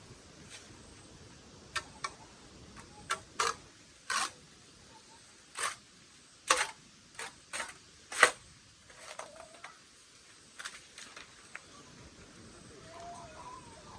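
About a dozen sharp clicks and knocks at irregular intervals, the loudest a little past the middle, then a few fainter ones.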